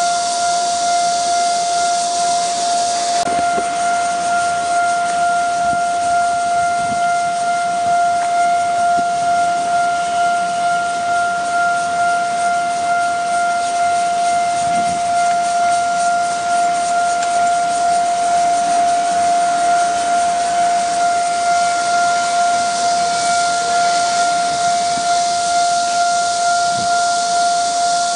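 Electronic warning bell of a Taiwan Railway level crossing ringing: one steady high tone that pulses evenly. It signals an approaching train, with the barriers lowered.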